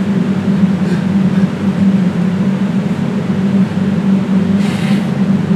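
A loud, steady low mechanical hum that drones on without change.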